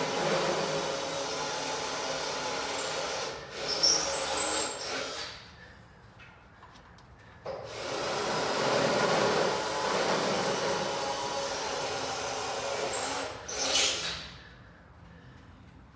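Power tool running in two long runs of about five seconds each while driving in a starter bolt, with a short sharp noise near the end.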